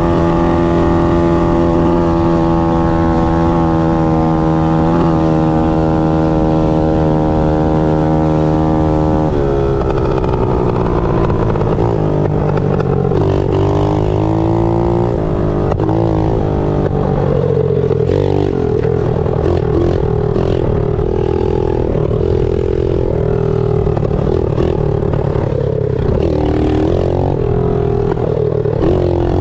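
Pit bike's small single-cylinder engine running hard at a steady high pitch, held pinned. About a third of the way in the pitch drops, and from then on it rises and falls repeatedly as the throttle is rolled off and back on.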